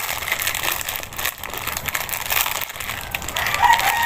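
Crunching and chewing of a dry, uncooked block of Lucky Me Beef instant noodles bitten straight from the packet. About three and a half seconds in, a rooster starts to crow.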